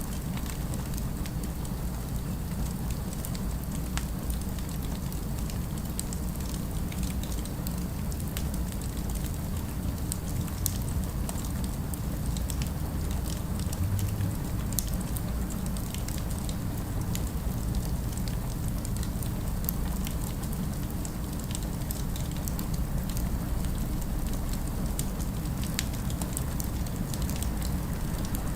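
Fireplace crackling: a steady stream of small pops and snaps over a constant low rumble of city ambience.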